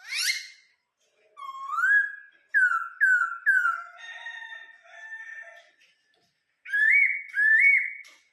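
Laughingthrush singing: a quick rising whistle, then a run of loud slurred whistles that rise and fall, a stretch of chattering notes in the middle, and two more looping whistles near the end.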